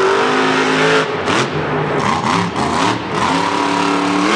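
Monster truck's big supercharged engine revving hard, its pitch falling and rising as the throttle is worked, climbing again about three seconds in and holding high.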